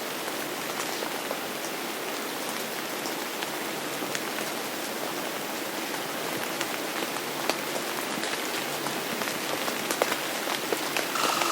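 Steady rain falling, with individual drops ticking sharply here and there, growing a little louder near the end.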